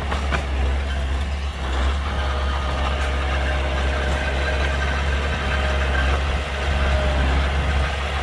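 Heavy earthmoving machinery's diesel engine running steadily with a deep, low drone and a faint steady whine above it.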